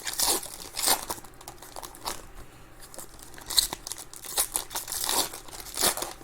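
Trading card pack wrappers being torn open and crinkled as cards are handled: a series of short, irregular rustles and tears.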